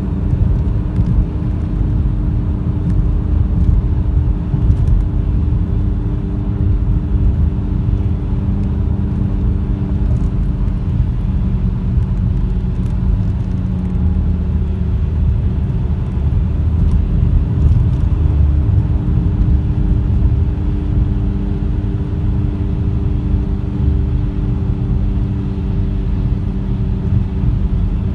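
BMW E46 3 Series being driven: steady road and drivetrain rumble with a constant engine hum, and a few faint ticks or creaks now and then. These are the rear-end creaking noise the owner is chasing, which is easier to hear the heavier the car is loaded.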